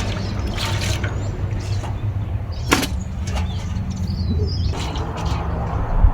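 Dishes being washed by hand: water splashing and pouring, with utensils knocking together in a few sharp clinks, over a steady low rumble. A bird chirps faintly.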